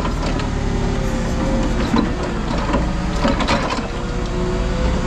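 Heavy machinery running steadily, with a faint held whine and scattered clanks of metal.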